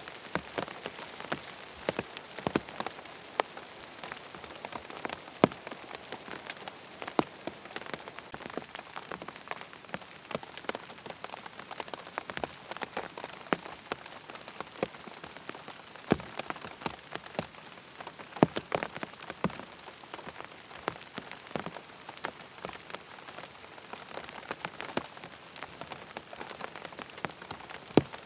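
Steady rain falling, with scattered sharp ticks and taps at irregular moments throughout.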